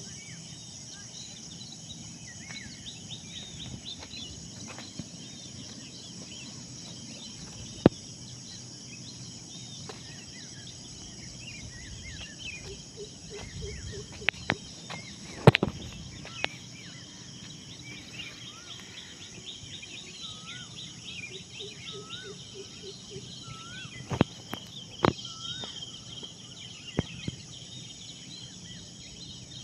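Morning birdsong: many small birds chirping and whistling over a steady high insect hum. Now and then there is a sharp click.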